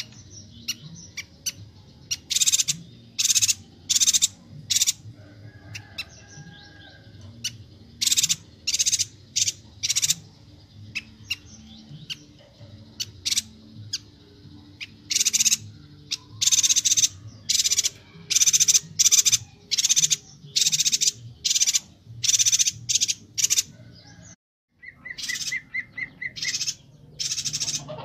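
Chestnut-crested yuhina (Bornean yuhina) calling actively: rapid bursts of short, high, chattering calls in quick succession. There is a brief gap about twenty-four seconds in, after which a short run of lower, evenly pulsed notes comes before the high calls resume.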